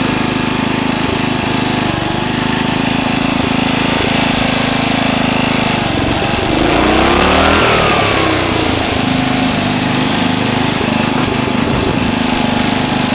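Sears lawn tractor's small engine running steadily, revving up and back down once about seven seconds in.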